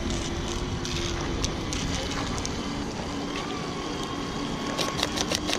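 Radio-controlled model warships running on a pond: a steady motor hum over water noise, with a run of sharp clicks near the end.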